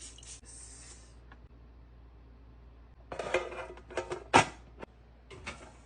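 A blade scratching across the surface of a sourdough loaf as it is scored, then a cluster of kitchenware handling noises with one sharp knock.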